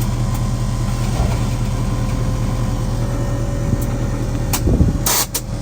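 Vehicle engine idling steadily, with a low rumble near the end and then loud bursts of hiss.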